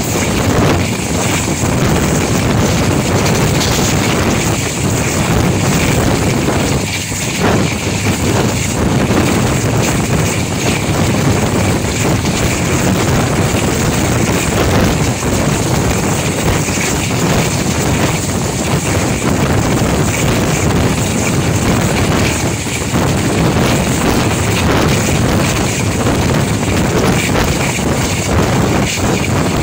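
Diesel locomotive engine running hard under throttle, a loud steady drone with wind buffeting the microphone.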